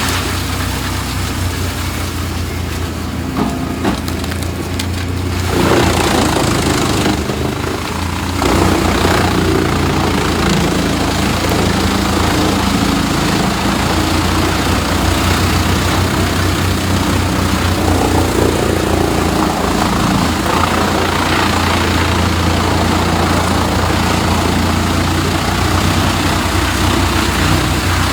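Large wood chipper running, its engine drone steady underneath, with wood being fed through and shredded. The noise grows louder about five seconds in and again a few seconds later.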